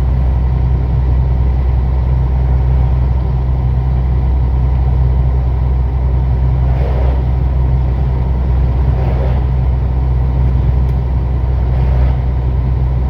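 Truck's diesel engine running at a steady cruise, a constant low drone with road noise.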